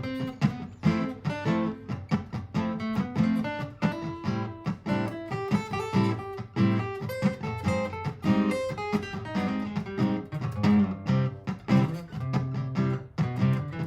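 Martin GPCPA4 acoustic guitar played through a looper: layered looped guitar parts with quick plucked notes over strummed chords, an improvised line played on top of the loop.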